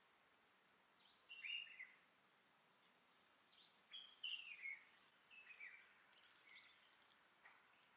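Faint bird calls outdoors: a few short chirps that slide downward in pitch, about a second and a half in and again between four and six and a half seconds in, over quiet background.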